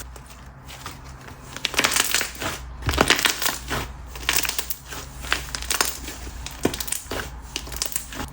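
Hands squishing, poking and stretching a thick Korean clay slime, making irregular sticky clicks, pops and crackles.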